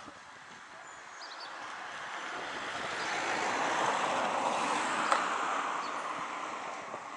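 A train passing through the station: a rushing rumble that swells to its loudest about four to five seconds in and then fades away, with a sharp click from the wheels or track at its peak.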